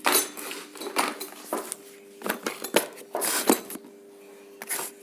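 A bundle of cut copper transformer winding wire being handled and wrapped in tape: a string of short, irregular clinks and rustles.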